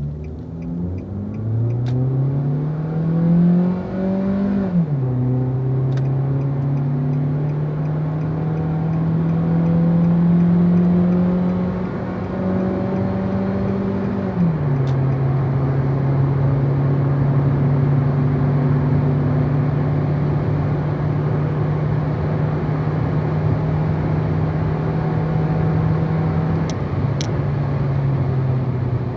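Nissan Cube's 1.4-litre four-cylinder engine accelerating hard under full throttle. Its pitch climbs, drops sharply at the upshifts about 5 and 15 seconds in, and climbs slowly again after each one. Near the end the pitch falls once more.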